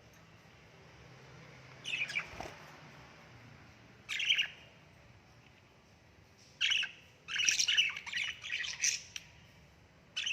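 A parrot squawking in short harsh calls: one about two seconds in, another about four seconds in, then a quick run of several calls from about six and a half to nine seconds.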